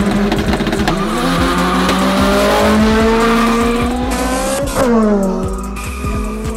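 Two Honda Civics launching side by side in a drag race, their engines revving hard with the pitch climbing steadily. Nearly five seconds in, the pitch drops sharply at an upshift and starts climbing again as the cars pull away and fade.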